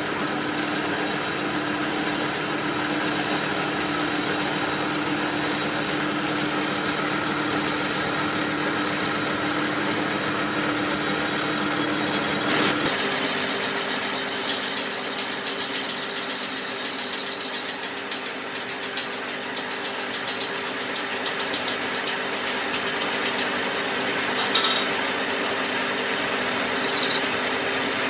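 A workshop machine tool running steadily while a piston is worked on. About halfway through its pitch changes and a high, rapidly pulsing squeal sounds for about five seconds, after which the machine runs on more quietly with a couple of short clicks near the end.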